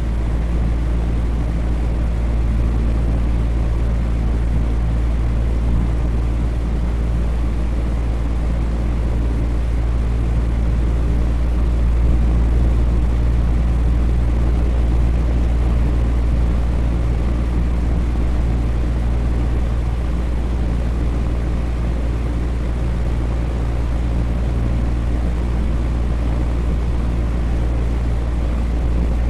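Electric fan running steadily: a constant low hum under an even whoosh of moving air.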